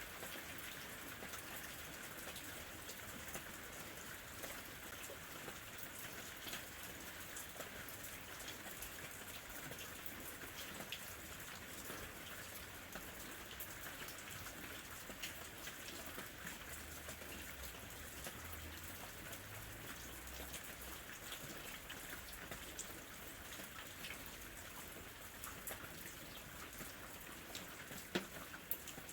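Steady summer rain falling, an even hiss dotted with many separate drop ticks.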